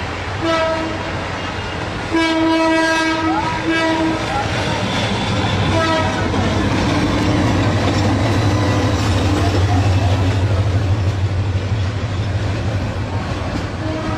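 A diesel locomotive's horn sounds in several blasts over the first six seconds: a short one, one long one, then two shorter ones. Then comes the steady low rumble of the locomotive and its carriages passing close by.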